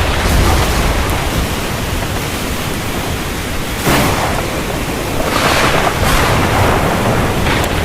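Heavy rain falling steadily, with a low rumble of thunder underneath. A few sudden louder rushes of rain come through, the first about four seconds in.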